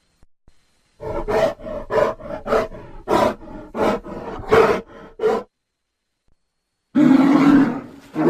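Creature sound effect for a Doedicurus: a run of about nine short, rough calls, roughly two a second, then after a pause a long, louder call begins near the end.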